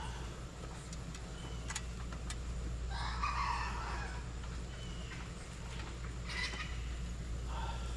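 Chickens clucking and calling, with a louder call about three seconds in and a shorter one at about six and a half seconds. A steady low hum runs underneath, with a few sharp clicks.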